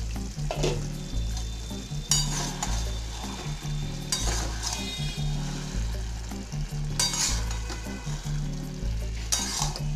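Metal spatula stirring and scraping a thick cabbage, potato and fish-head curry in a metal kadai, with the simmering dish sizzling; five sharper scrapes against the pan stand out, roughly every two seconds.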